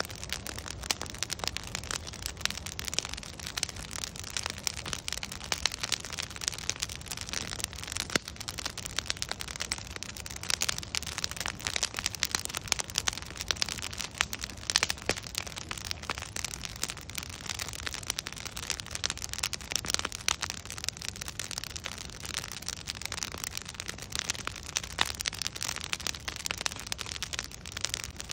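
Wood fire crackling: a dense run of sharp pops and snaps from the burning logs over a low steady rumble of flame.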